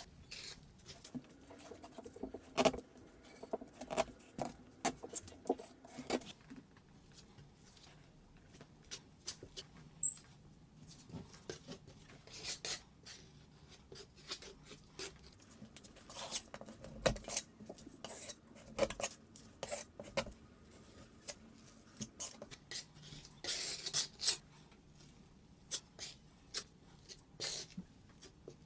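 Irregular clicks, taps and short scrapes of hand tools working on drywall, with a few longer scrapes about twelve seconds in and again near twenty-four seconds.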